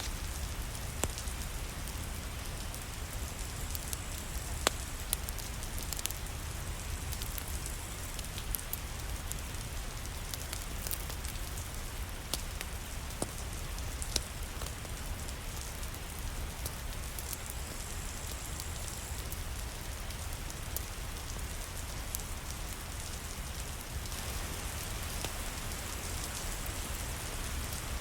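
Steady rain, with scattered sharp crackles from a wood fire in a fireplace and a low rumble underneath.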